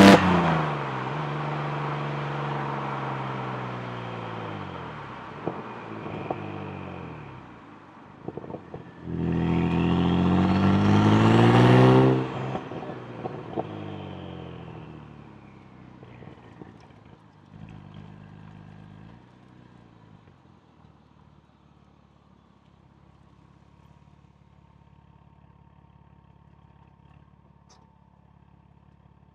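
Saab Turbo X's turbocharged 2.8 V6, with a G25 turbo kit, 3.5-inch downpipe and Hirsch axle-back exhaust. The engine note falls away off throttle, then the car makes a second hard pull of about three seconds with rising pitch and a high rising whistle. The pull cuts off sharply, and the sound falls and fades to a faint low hum.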